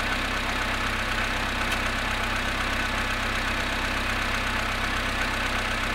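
Volkswagen Polo Sedan engine idling steadily while still cold after standing overnight in frost, with the knocking noise that the recording is made to capture.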